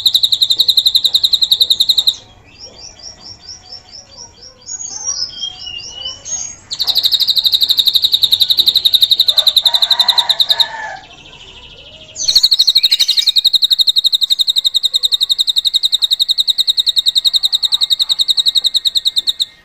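Drongo (srigunting) singing in its mimicked cililin style: long, fast, loud trills held on one high pitch, three of them, broken up by short runs of varied high chirps.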